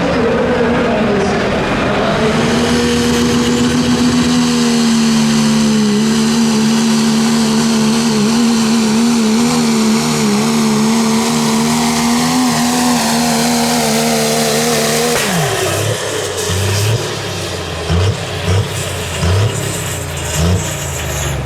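Pulling vehicle's engine running flat out on a pull, its pitch held high and steady with slight wavering. About fifteen seconds in, the pitch falls sharply as the engine comes off the throttle. After that come short, uneven bursts of engine sound.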